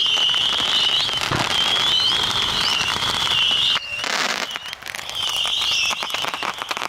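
Huge bonfire of Christmas trees burning, with dense rapid crackling and popping. Over it a loud high wavering whistle sweeps upward at the end of each stretch; it breaks off just before four seconds in, where a short rush of hiss sounds, and then resumes.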